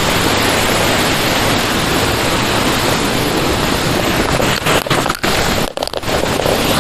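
Waterfall rushing: a loud, steady roar of falling water, with a few brief dropouts about five seconds in.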